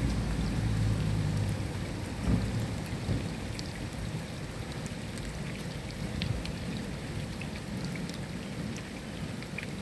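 Steady rain falling, with scattered droplet ticks. Low thunder rumbles at the start and dies away within about two seconds, with one short low thump just after.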